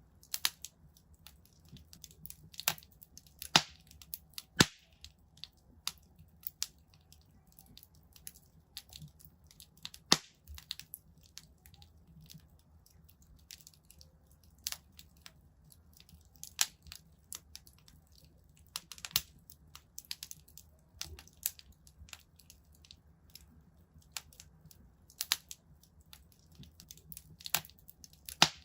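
Wood fire in a fireplace crackling: irregular sharp pops and snaps, some much louder than others, over a faint low rumble of the flames.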